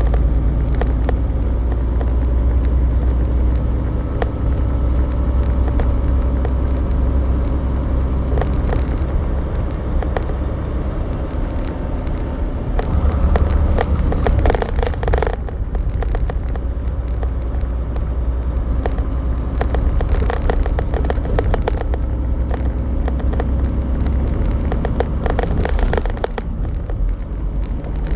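Semi truck driving: a steady low engine and road rumble with frequent small clicks and rattles, growing louder for a couple of seconds about halfway through.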